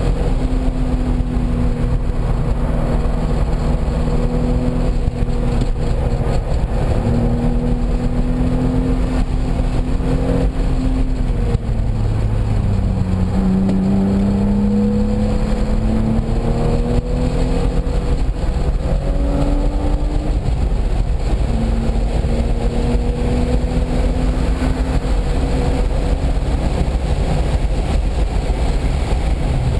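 Car engine under hard driving, its pitch holding, then dropping low a little before the middle and climbing again in steps as it revs through the gears, over steady wind and road noise.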